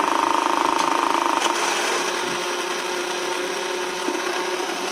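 Battery-powered Tomy Turnin' Turbo dashboard racing game running: its electric motor drives the moving road screen with a steady, fast buzzing whir. About a second and a half in, the higher part of the buzz drops away, leaving a lower steady hum.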